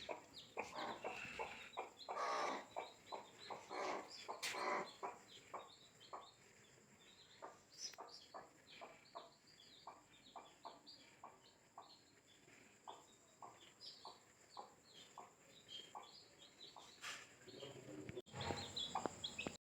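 Domestic chickens clucking. Louder clucks fill the first few seconds, then a long run of soft, short clucks follows, about two a second, with a louder burst after a sudden break near the end.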